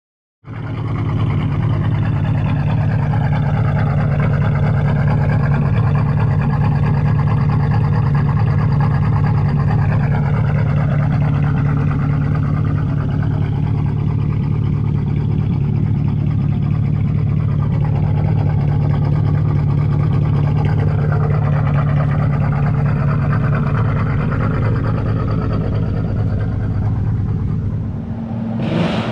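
BMW E60 545i's 4.4-litre V8 idling steadily through an H-pipe exhaust. The sound starts abruptly and holds an even, unchanging pitch, with a brief change near the end.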